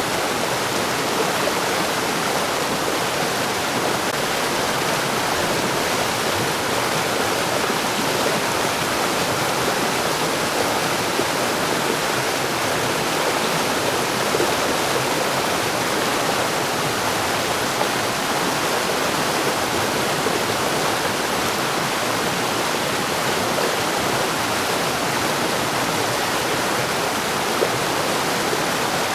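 Mountain stream rushing over rocks: a steady, unbroken wash of water noise.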